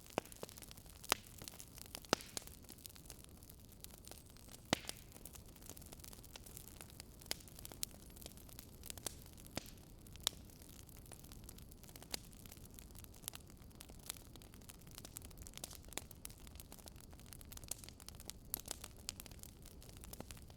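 Fireplace fire crackling: irregular sharp pops and snaps, a few louder than the rest, over a faint steady rumble and hiss.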